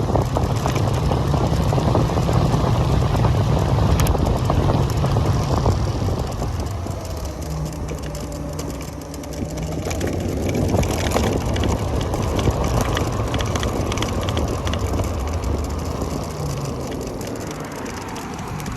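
Low wind rumble and road noise from riding an Onyx RCR electric bike, with scattered crackles from the tyres on the surface. A faint motor whine bends in pitch about halfway through.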